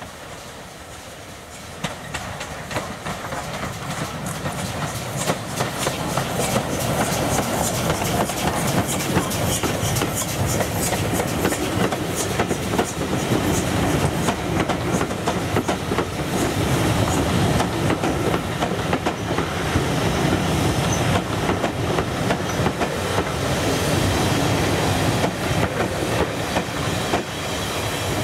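Steam-hauled passenger train running past at close range, its carriage wheels clicking over the rail joints among a steady rumble. The sound builds over the first few seconds, then stays loud.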